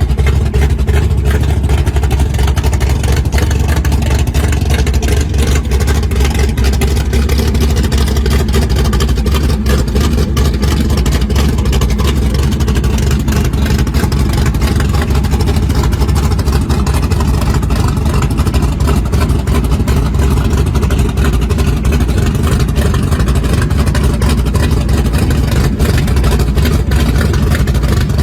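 Muscle car engine idling with a loud, steady deep rumble, holding an even idle with no revving.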